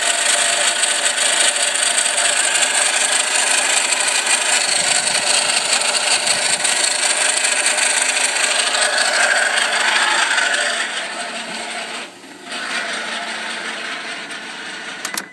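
1999 Isuzu Rodeo 3.2 V6 idling with a loud, steady noise from the belt drive. The owner takes it for worn-out bearings in the off-centre hydraulic tensioner or idler pulley, not the oil-pressure ping these engines are known for. The noise drops in level about eleven seconds in.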